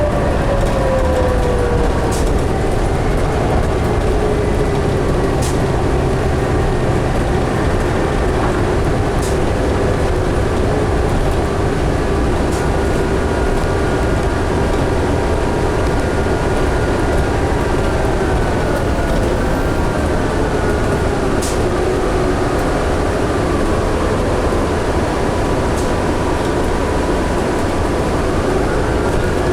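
Interior sound of a 2011 New Flyer D60LFR diesel articulated bus under way: a steady rumble of engine and road noise with a drivetrain whine. The whine falls in pitch over the first couple of seconds, then holds steady, with a few faint rattles and clicks.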